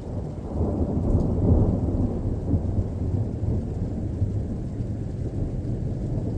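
Thunder rumbling: a deep roll that swells about a second in, peaks, then keeps rolling on lower.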